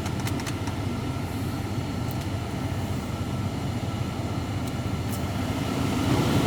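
A 5.7L Hemi V8 idling steadily after a remote start, with a few faint ticks. The engine is running smoothly on a new water pump, belt tensioner and idler pulley.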